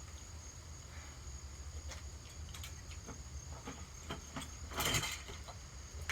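A Hampton Bay ceiling fan being battered: scattered light knocks and clatter, the loudest a short rattling crash about five seconds in, over a steady high trill of crickets.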